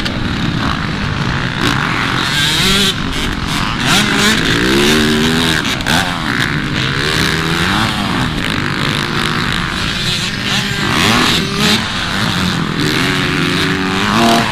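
Motocross dirt bike engines revving on the track, their pitch repeatedly rising through the gears and dropping off.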